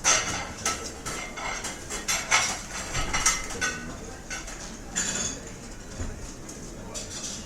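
Dishes and cutlery clattering: a quick run of clinks and knocks of plates and silverware, some ringing briefly, busiest in the first five seconds and thinning out after, over steady background noise.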